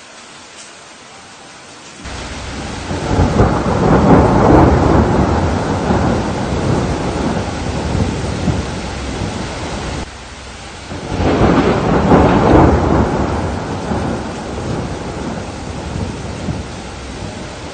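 Steady rain with two long rolls of thunder: the first breaks about two seconds in, peaks and rumbles away slowly, and a second builds up about eleven seconds in and fades again.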